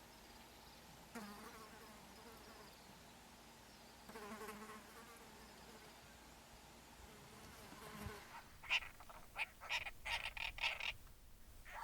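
An insect buzzing past twice, each buzz about a second long. Near the end comes a quick run of short, sharp chirps.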